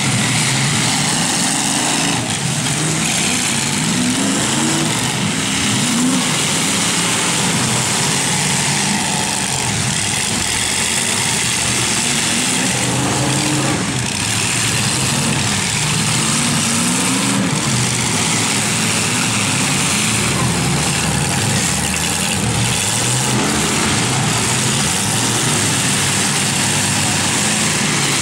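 Engines of several demolition-derby trucks running and revving at once, their pitch rising and falling over a steady loud din.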